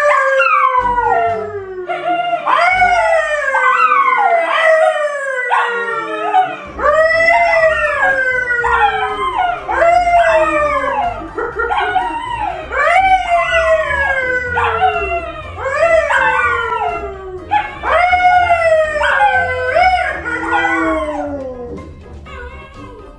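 A pet howling again and again, each call sliding down from high to low pitch, one after another, until the calls stop near the end.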